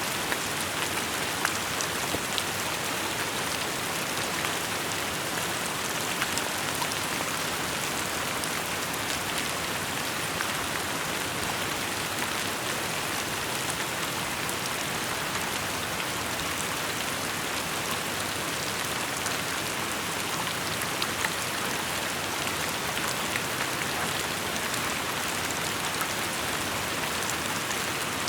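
Steady rainfall, with individual drops ticking sharply on hard surfaces among the even hiss of the rain.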